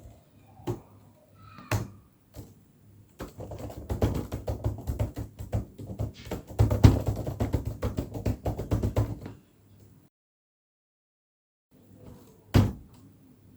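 Fast typing: a dense run of rapid key clicks lasting about six seconds that stops abruptly. A few scattered clicks come before it and one sharp click comes near the end.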